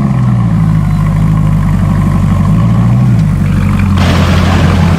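Mercedes-Benz SLS AMG's 6.2-litre V8 idling through an aftermarket exhaust, with one light throttle blip that lifts and drops the pitch a couple of seconds in. A hiss joins near the end.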